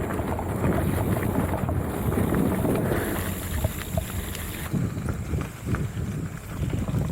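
Mountain bike riding along a rough trail: a steady rumble of wind on the microphone and tyres on the ground, with frequent small clicks and knocks.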